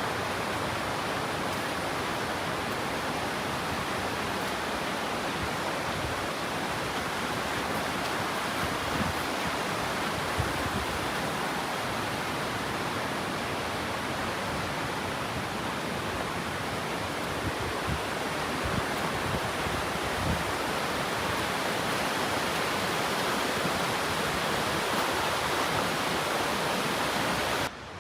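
Waterfall: a steady, loud rush of falling water, with no change in its sound.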